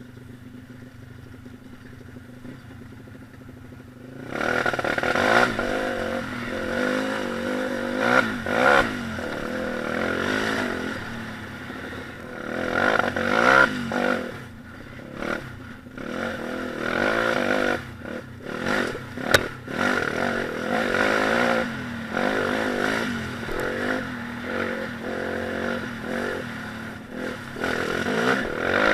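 Four-stroke single-cylinder pit bike engine running, faint for the first four seconds, then loud and revving up and down repeatedly as the throttle is worked. A sharp click sounds about two-thirds of the way through.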